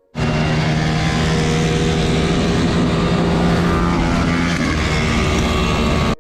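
Off-road vehicle engine running steadily at a constant speed, loud and even in pitch.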